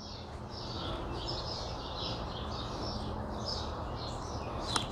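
Birds chirping repeatedly in the background over a low, steady outdoor hum, with one brief click near the end.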